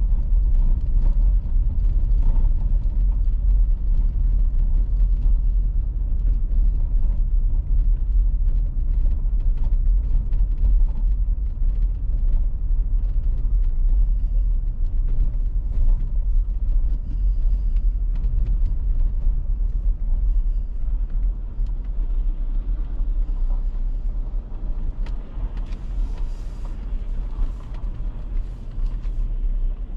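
A car driving, with a steady low rumble of road and engine noise that eases a little in the last third.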